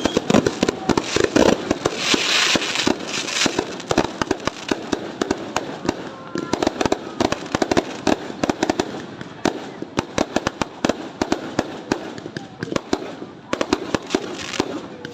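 New Year fireworks going off: a dense, irregular string of bangs and crackling pops, loudest in the first few seconds with a hissing crackle, then continuing as rapid smaller pops.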